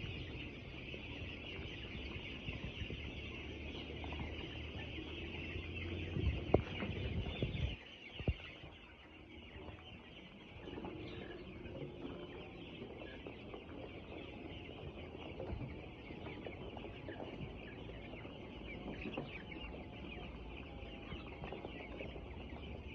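A large flock of ten-day-old chicks cheeping together in a dense, steady chorus. A low rumble with a few knocks runs under it for the first eight seconds or so, then drops away.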